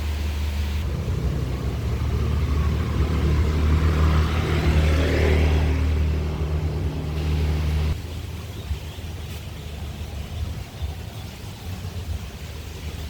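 Honda HR-V car running with a steady low rumble that grows slightly louder towards the middle, then drops off abruptly about eight seconds in to a quieter rumble.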